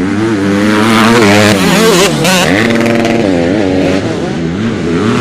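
Racing motorcycle engines revving hard, the pitch climbing and dropping several times as the riders open the throttle and shift or back off.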